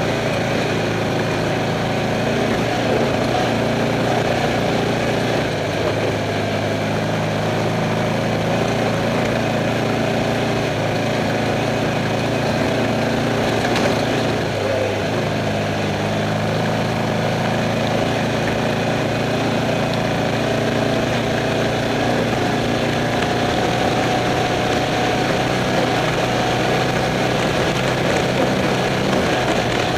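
Off-road race car's engine running at a steady pitch, heard from inside the car, with a brief small dip in pitch about halfway through.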